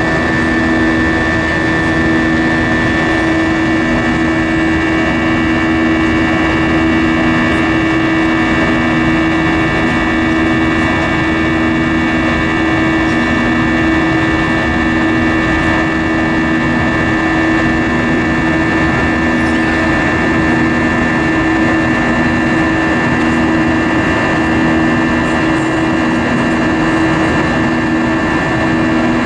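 Airbus A320-232 cabin noise from a front window seat: the steady drone of the IAE V2500 engines and airflow in flight. It carries several steady tones and a low hum that pulses about every second and a half.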